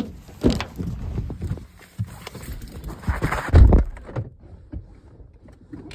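Footsteps and irregular thumps, the heaviest about half a second and three and a half seconds in, then quieter near the end.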